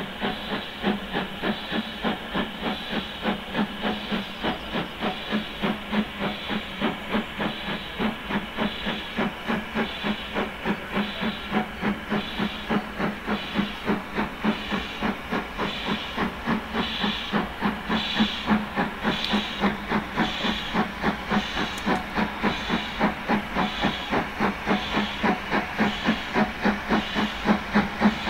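Steam locomotive working under power, S&D 7F 2-8-0 No. 53809, its exhaust beats coming in an even rhythm of about two a second over a continuous hiss of steam.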